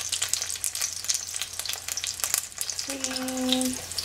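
Tuna-filled tortilla tacos sizzling and crackling as they fry in hot oil in a pan. A short, steady hum sounds about three seconds in.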